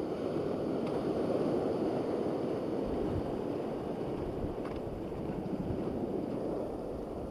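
Steady rushing of wind and sea waves, with wind buffeting the microphone.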